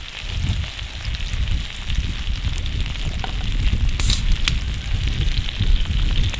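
Wood campfire crackling, with scattered small pops and one sharp crack about four seconds in, over a low rumble.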